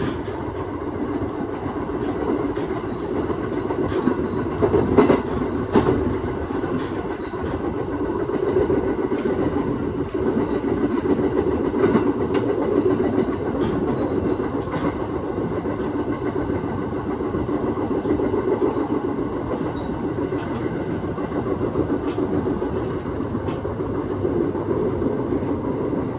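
Aoimori Railway 701 series electric train running at speed, heard from inside the car: a steady rumble of wheels on rail with occasional sharp clicks over the track.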